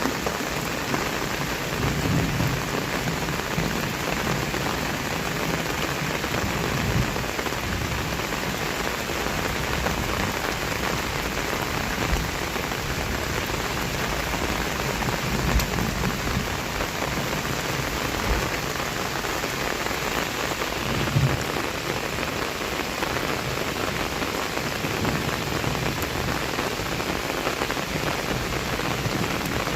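Heavy rain falling steadily on surfaces, with a few brief low rumbles now and then.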